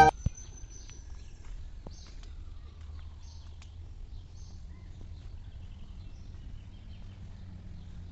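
Outdoor ambience: a few faint, short bird chirps over a steady low rumble.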